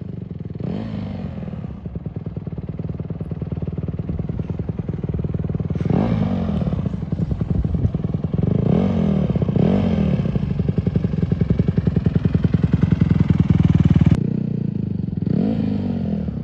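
Honda CRF150R dirt bike's four-stroke single-cylinder engine running, the throttle opened and closed several times so the revs rise and fall. Its note climbs to its loudest steady pitch, then drops off suddenly about two seconds before the end.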